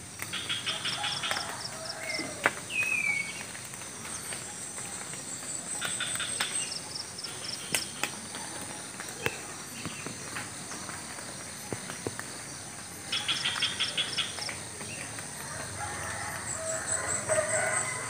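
Rural morning ambience: birds calling in short, rapid rattling trills that come three times, with scattered chirps, over a steady high-pitched insect buzz.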